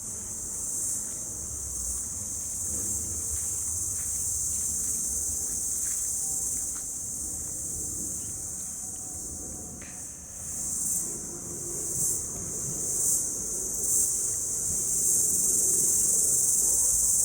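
Steady high-pitched insect chirring that swells a few times in the second half and grows louder near the end.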